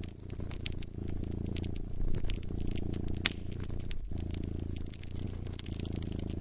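A cat purring in a steady low rumble, with short breaks about a second in and again about four seconds in, over a wood fire crackling with frequent sharp pops. One louder pop comes about three seconds in.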